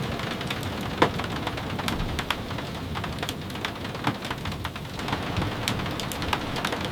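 Steady rain ambience, an even hiss, with frequent short sharp ticks and pops scattered irregularly through it. The sharpest tick comes about a second in.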